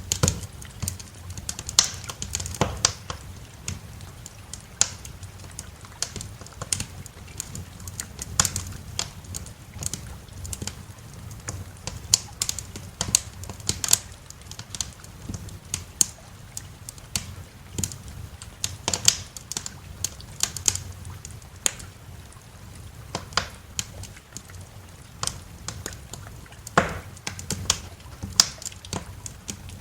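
Wood fire in a fireplace crackling, with irregular sharp pops and snaps, several loud ones standing out, over a low steady rumble.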